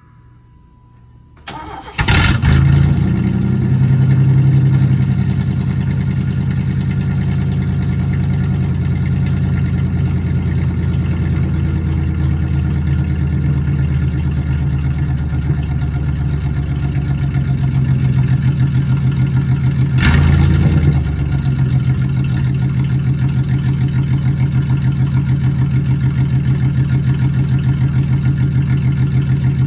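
A 1993 Chevy S10's 4.3-litre V6 with the muffler cut out cranks, catches about two seconds in, and idles loud and rough through the open pipes. About twenty seconds in there is a brief blip of the throttle, then it settles back to idle. Before it starts, a steady beep sounds.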